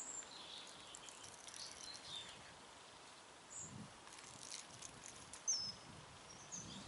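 Small birds chirping now and then, short high calls, one falling chirp about five and a half seconds in, over a faint outdoor background. A few faint clicks and a couple of soft knocks sit beneath them.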